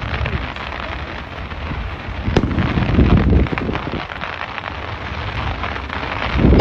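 Fireworks display going off: a sharp bang a little over two seconds in, then a louder spell of crackling and booming over a steady rumble.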